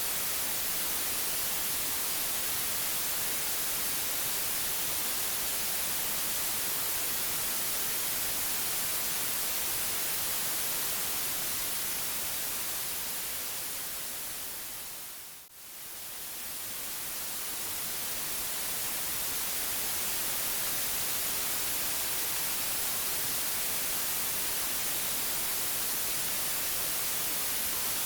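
Steady white noise, an even hiss strongest in the high end. About halfway through it fades down briefly and swells back to full level.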